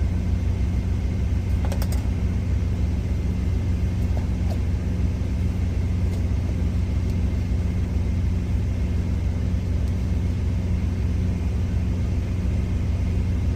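Semi truck's idling diesel engine, a steady low drone. A brief click sounds about two seconds in.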